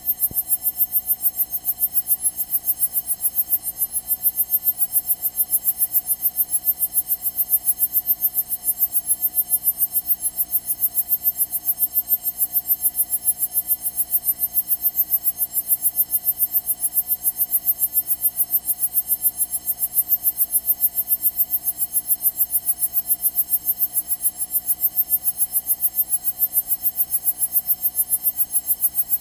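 Rhythmic electronic ticking pulses, several a second and evenly spaced, over a steady hum and hiss in a light aircraft's intercom audio feed: electrical interference in the headset or recording line.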